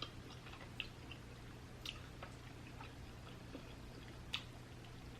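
Faint chewing and wet mouth sounds of a person eating seafood, with a few short sharp clicks and smacks, the loudest about four seconds in, over a low steady hum.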